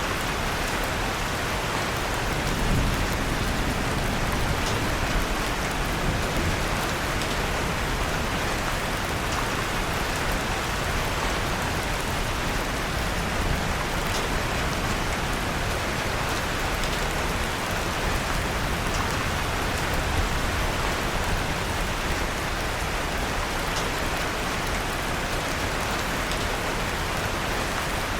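Steady rain with the soft crackle of a wood fire in a fireplace mixed in, faint scattered ticks over an even hiss.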